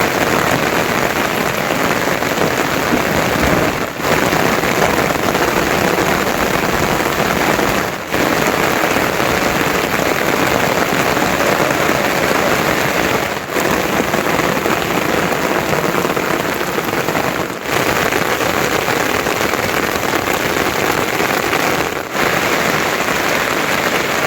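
Heavy monsoon rain falling steadily, a dense even hiss, with short dips in level every four or five seconds.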